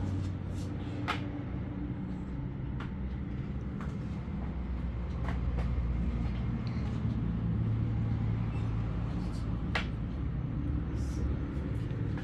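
Low, steady rumble of a motor vehicle engine running, growing louder about five seconds in, with a few sharp clicks and knocks over it.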